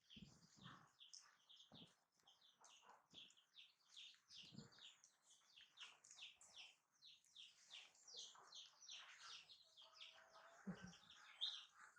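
Small birds chirping faintly and without pause, rapid high chirps several a second, with a few soft knocks of handling now and then.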